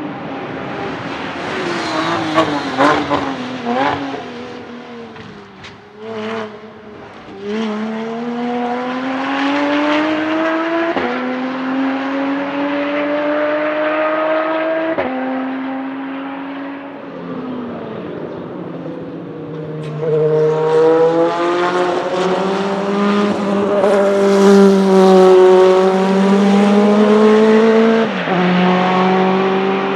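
Race car engine under hard acceleration, its pitch climbing steadily and dropping sharply at each upshift. The engine falls away in pitch in the first few seconds, and is loudest in the long pull near the end.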